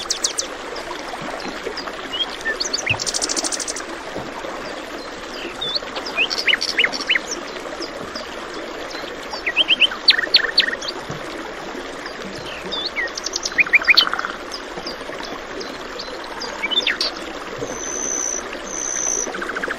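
Songbirds chirping and trilling in short, scattered calls over the steady rush of a stream.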